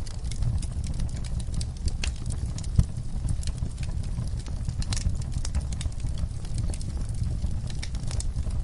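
Wood fire in a fireplace crackling: irregular sharp snaps and pops over a steady low rumble of the flames, with one louder pop about three seconds in.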